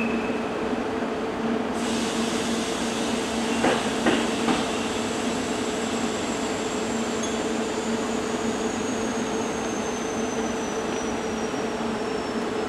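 Train running with a steady hum and rumble. Three sharp clacks come close together about four seconds in, and a faint high whine slowly falls in pitch.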